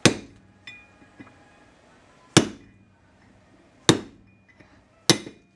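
Four hammer taps on metal, a second or more apart, each a sharp clink with a short ring. They are the sound of driving a tool against the bronze kingpin bushing in a Datsun truck spindle to tap its protruding edge down.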